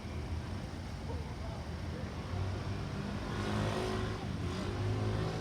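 Class 170 Turbostar diesel multiple unit passing, a steady low diesel engine hum with a swell of wheel and rail noise about three to four seconds in.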